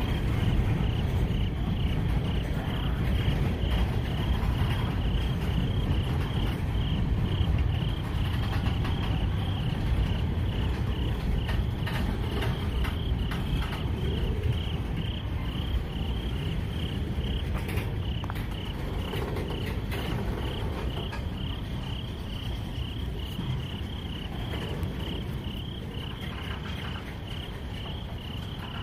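Freight train cars rolling slowly past with a steady low rumble and a few faint wheel clanks, the rumble easing toward the end. Over it an insect chirps steadily at about two pulses a second.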